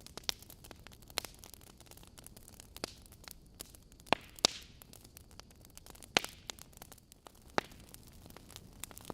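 Wood logs burning in a fireplace, crackling with sharp, irregular pops over a soft, steady hiss. The loudest pops come in a pair about four seconds in and again about six seconds in.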